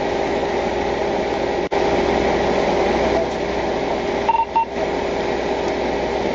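Steady hum and hiss of a running police vehicle, with two short electronic beeps about four seconds in.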